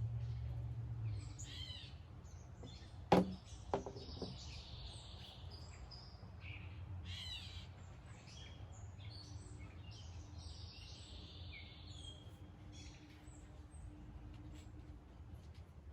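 Several wild birds chirping and calling, with short trills and chirps throughout. Two sharp clicks stand out about three seconds in, and a low rumble fades out about a second in.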